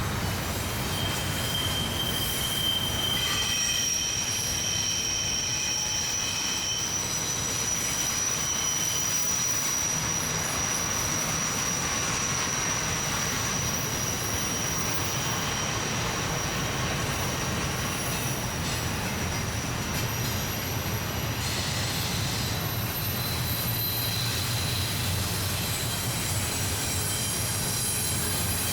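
Wheels of a long Norfolk Southern intermodal freight train squealing against the rails on a tight curve: several high, thin squeals that come and go and change pitch, over the steady low rumble of the passing cars.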